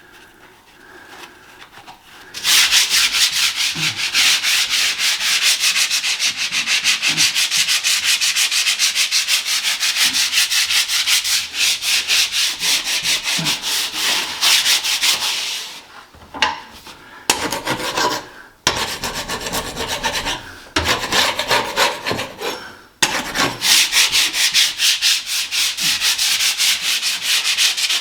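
Sandpaper rubbing back and forth in quick strokes over a painted ceiling, starting about two seconds in and pausing briefly a few times later on. The paint is being sanded back to a hard edge where it has flaked and blistered.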